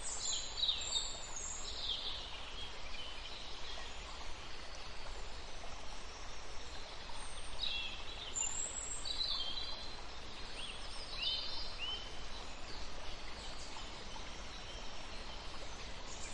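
Birds calling with short, high-pitched chirps and call notes, scattered in irregular bunches, over a steady outdoor background hiss.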